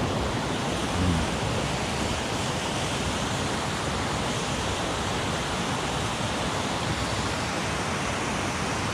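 Mountain headwater stream running steadily, an even rushing noise.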